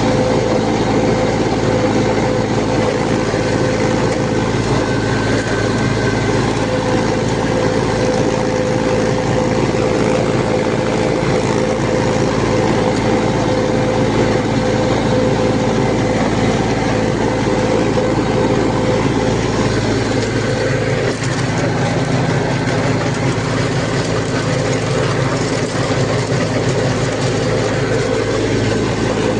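Sonalika DI-20 mini tractor's diesel engine running steadily, driving a rotavator. The engine note shifts slightly about two-thirds of the way through.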